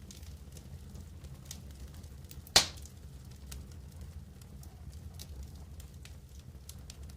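Campfire crackling, with scattered small snaps over a steady low rumble. One loud pop comes about two and a half seconds in.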